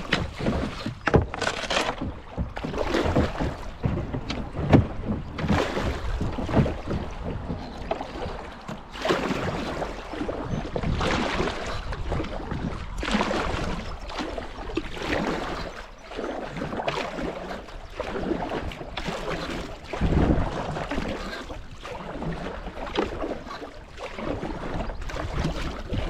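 Kayak paddle strokes dipping and splashing in shallow creek water, with water rushing around the kayak's hull, the surges coming about once a second.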